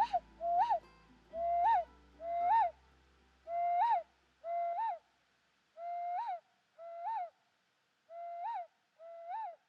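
Handmade clay bird-call whistle blown in short hooting notes, each sliding up in pitch and falling back, about a dozen in a row, growing fainter toward the end; its dove-like coo.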